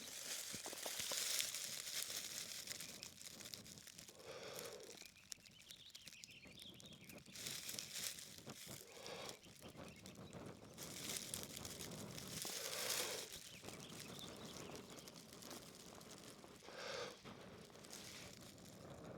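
Dry grass tinder rustling and crinkling as it is handled, in irregular bursts of a second or so.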